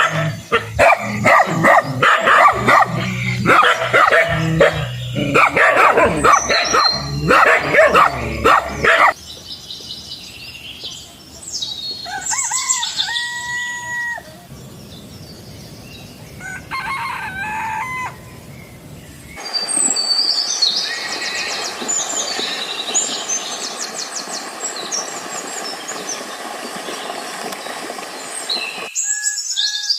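Rooster crowing, with other chicken calls, followed by many short high bird chirps over the last third.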